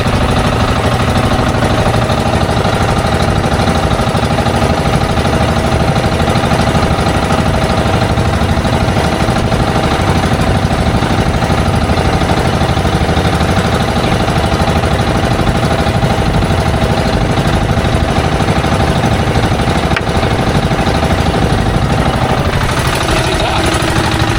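Fishing boat's diesel engine running steadily under way, a loud, even, knocking drone that keeps one pitch and level throughout.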